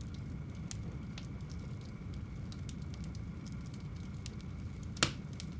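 Fire burning in a home fireplace: a steady low rumble with scattered small crackles, and one sharp, loud pop about five seconds in.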